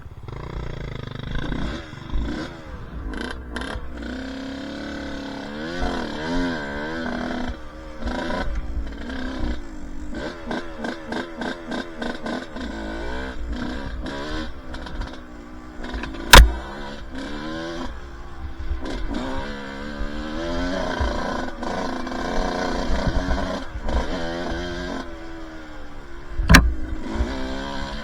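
Two-stroke dirt bike engine riding a trail, revving up and down over and over as the throttle is worked, with two sharp knocks, one about halfway through and one near the end.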